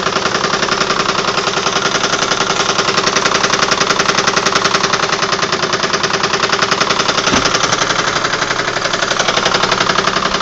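A Universal Precision Deluxe sewing machine running steadily at speed under its motor: a fast, even clatter of the needle mechanism.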